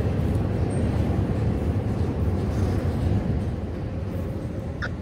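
Rail-train flatcars loaded with long steel rails rolling past, a steady low rumble of wheels on the track. A short high squeak comes near the end.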